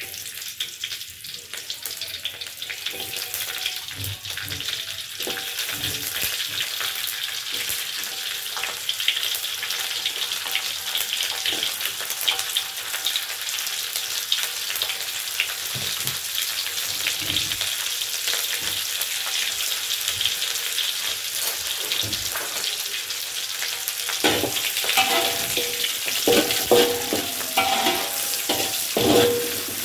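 Leaves, sliced shallots, chillies and lemongrass sizzling as they fry in hot oil in a wok, a steady hiss that starts as they drop in. Near the end a metal ladle stirs them, scraping and clattering against the wok.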